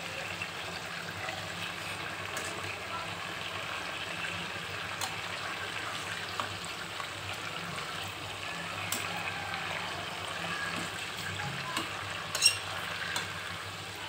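Chicken legs sizzling steadily as they shallow-fry in oil in a pan, with small clicks and scrapes of metal tongs moving the pieces and one sharp clack near the end.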